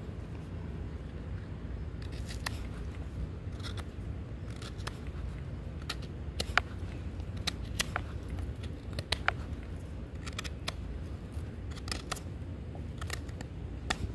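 A pocket knife blade carving a hard oak stick: irregular sharp scraping cuts, a dozen or so, starting about two seconds in, over a low steady background rumble.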